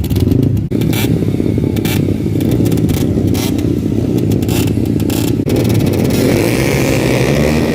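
Several motocross dirt bike engines running and revving together in a fast, crackling flutter. About five and a half seconds in the sound shifts and a higher-pitched engine note builds.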